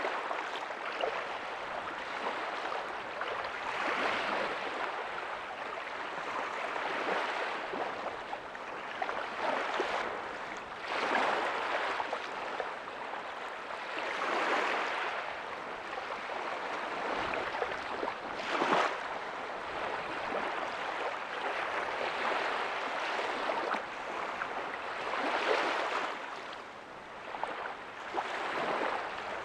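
Ocean waves breaking softly on a beach, each wash of surf swelling and fading every few seconds over a continuous hiss.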